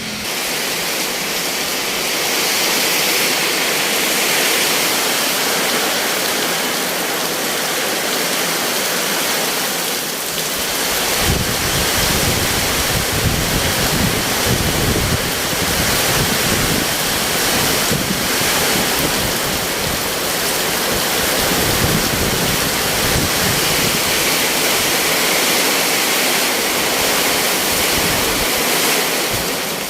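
Heavy rain pouring down in strong wind, a dense steady hiss. From about eleven seconds in, gusts buffet the microphone with uneven low rumbling.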